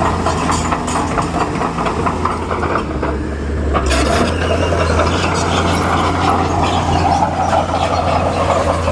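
Bulldozer's diesel engine running with a steady low hum under a dense mechanical clatter. The clatter drops away briefly about three seconds in, then comes back.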